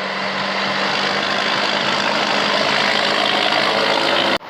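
Truck engine running loud and steady, growing slightly louder, then cutting off abruptly just before the end.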